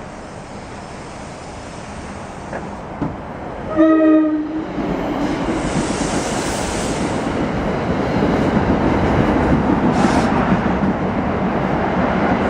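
A commuter train's horn sounds one short blast, followed by the train approaching and running past, its noise building and staying loud.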